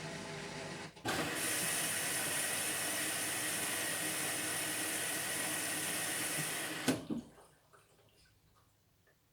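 Indesit washing machine filling through its water inlet valve at the start of a Synthetics cycle: a steady rush of water begins about a second in after a softer hum, and cuts off suddenly with a click about seven seconds in, leaving it much quieter.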